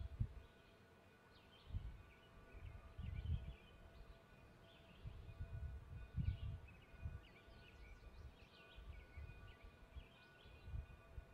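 Faint birdsong, short scattered chirps, over uneven low rumbling that swells and fades several times, with a faint steady hum underneath.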